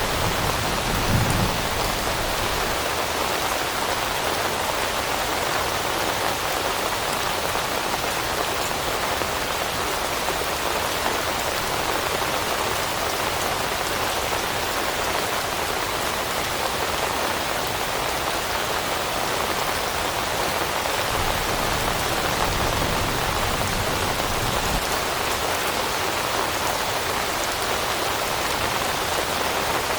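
Steady rain falling on leaves: a dense, even hiss of raindrops with no let-up.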